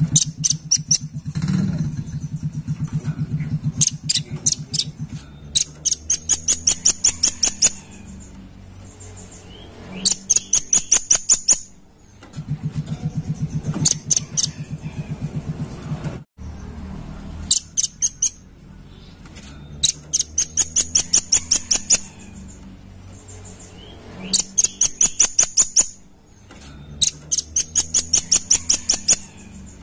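Velvet-fronted nuthatch calling: rapid trains of sharp, high chip notes, about eight to ten a second, each run lasting a second or two and repeated every few seconds.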